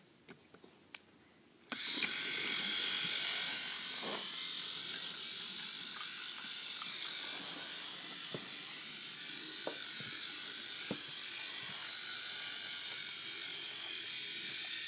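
Small electric motor of a battery-powered toy train switching on about two seconds in and whirring steadily as it runs along plastic track, with a few scattered clicks.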